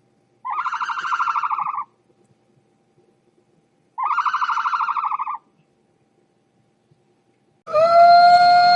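Goat bleating twice, each a tremulous call about a second and a half long, a few seconds apart. Near the end a loud, steady, high-pitched call or tone begins.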